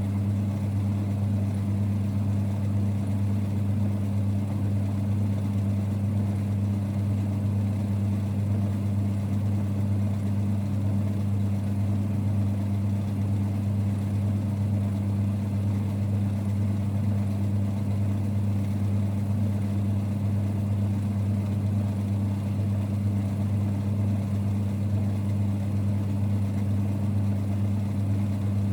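1946 Boxford lathe running, a steady low rumble with a constant deep hum that does not change.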